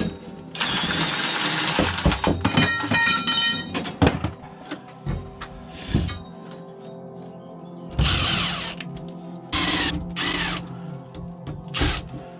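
Background music with intermittent scrapes, knocks and a short ringing clink from plumbing work on pipework, plus two louder hissing scrapes about eight and ten seconds in.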